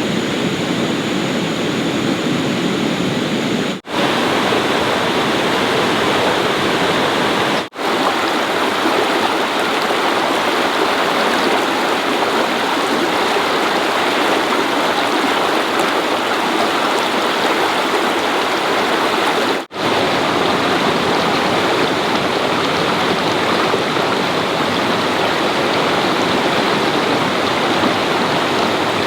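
Steady rushing water, like a forest stream running fast. It drops out abruptly for an instant three times, about four, eight and twenty seconds in.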